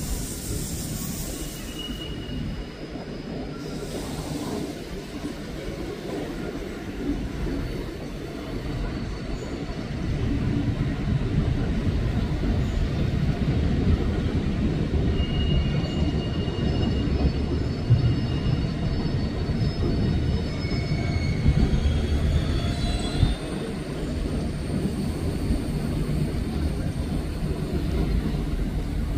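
Trains rolling through a station: a container freight train rumbles past. From about ten seconds in, a Siemens Mireo (class 463) electric multiple unit runs by closer and louder, with a few faint, brief wheel squeals.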